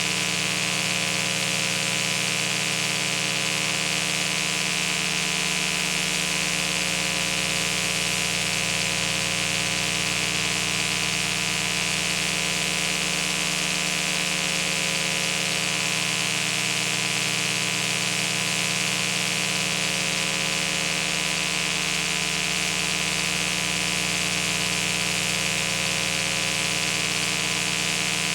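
A steady hum made of many fixed tones, with a hiss above it, unchanging throughout.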